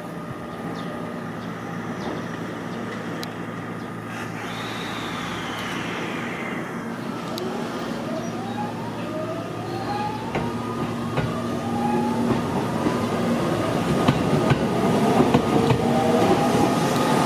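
Electric train at a station platform, its motors giving a series of rising whines while wheel-on-rail noise grows steadily louder.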